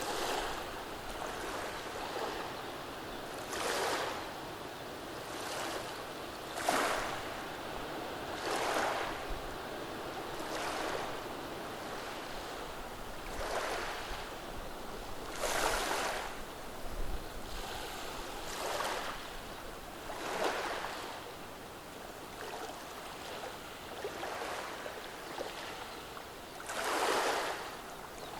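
Small, gentle waves on a calm sea washing over a beach of rounded pebbles, each wave a soft swell of water noise every two to three seconds over a steady wash, one larger wave near the end.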